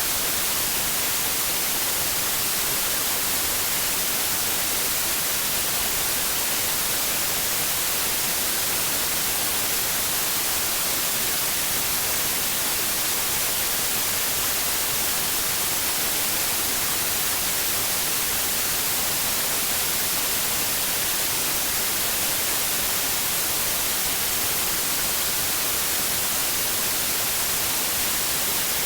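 Steady white noise: an even, unbroken hiss with the most energy in the high end, holding at one level throughout.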